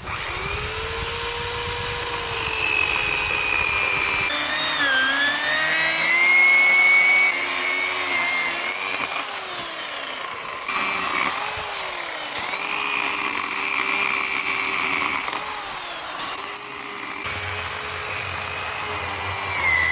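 Electric chainsaw running and cutting oak, its motor whine dipping in pitch again and again as the chain bites into the wood, then recovering.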